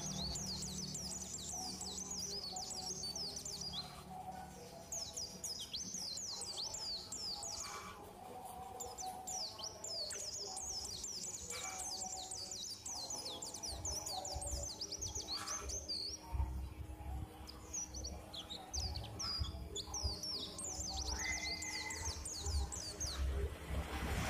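Many small birds chirping rapidly and continuously, over a low steady hum.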